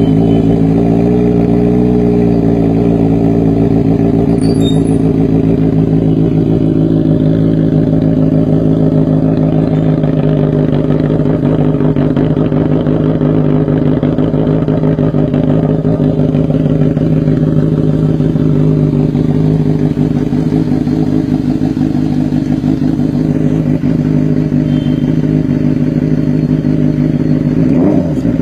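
Benelli 600i's inline-four engine idling steadily through its exhaust, with the revs starting to climb at the very end.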